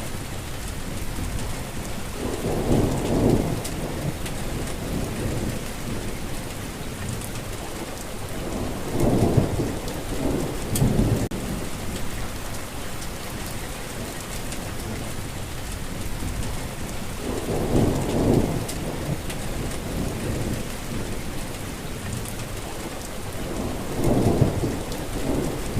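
Steady rain falling, with low rumbles of thunder swelling up four times.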